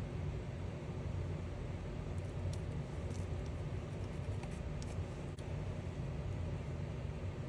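Steady low rumbling background noise, with a few faint light ticks and rustles of paper stickers being handled in the middle.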